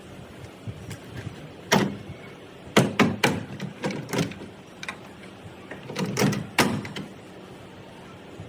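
Sharp knocks, about ten in irregular clusters, the loudest about two and three seconds in, with another group near six seconds.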